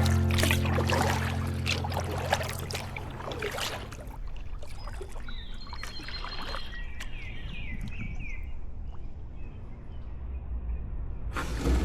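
Paddle strokes in river water: splashes and drips as the blade dips and lifts, busiest in the first few seconds and quieter after.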